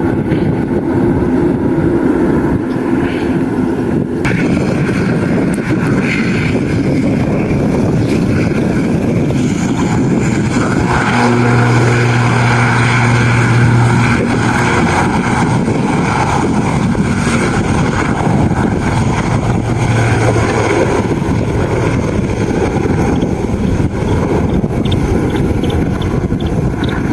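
Aircraft engines running loud and steady, with a low steady hum that comes in about eleven seconds in, fades a few seconds later and briefly returns near the end.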